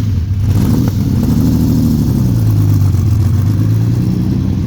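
Lamborghini Countach 5000S's naturally aspirated V12 running steadily at low revs, its pitch lifting slightly and easing back near the middle.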